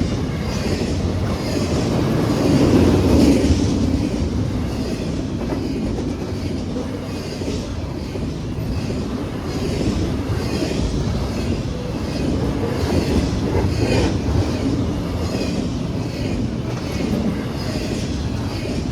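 Norfolk Southern intermodal freight train's cars rolling past, the wheels clicking over the rail joints in a steady repeating rhythm.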